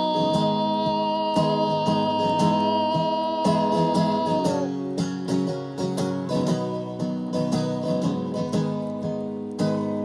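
Acoustic guitar strumming under a long, steadily held sung note that stops about four and a half seconds in; the guitar then carries on alone.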